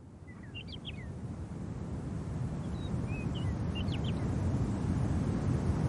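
Low, steady wind noise fading in and growing louder, with two brief clusters of high bird chirps, one near the start and one about three to four seconds in.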